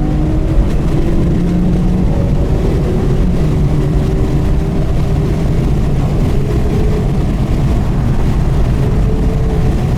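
Porsche Carrera GT's V10 with an FVD aftermarket exhaust, cruising at low revs over a heavy low rumble; its note rises and falls gently with the throttle.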